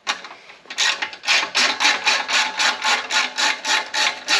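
Ratchet wrench worked quickly back and forth, undoing a fastener on a motorcycle exhaust. It makes a steady run of short clicking strokes, about four a second, starting about a second in.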